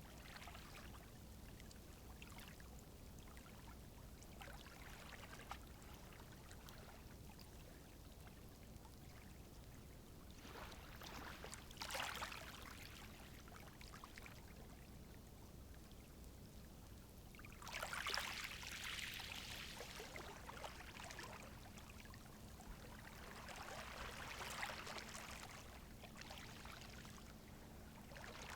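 Gentle sea waves washing softly onto the shore. Three waves rise and fall away, about a third, two thirds and five sixths of the way in, and the middle one is the fullest.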